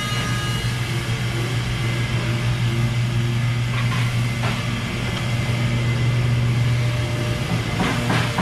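Steady low machine hum, with a few faint knocks about four seconds in and again near the end.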